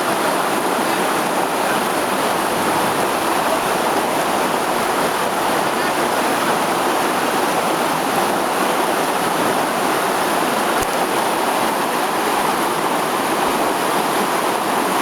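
Steady rush of flowing river water, even and unbroken throughout.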